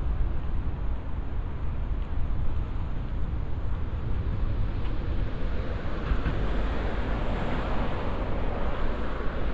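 Steady outdoor city ambience: a constant low rumble under a noisy hiss that grows louder from about six seconds in.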